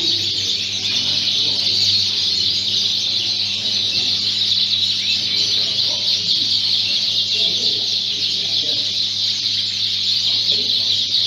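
A hall full of caged Fife canaries chirping and singing together: a dense, unbroken chorus of high chirps. Faint voices and a low steady hum sit beneath.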